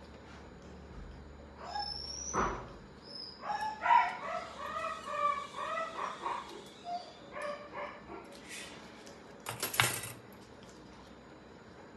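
A dog making a run of short, wavering, high-pitched cries, with a sharp clatter near the end.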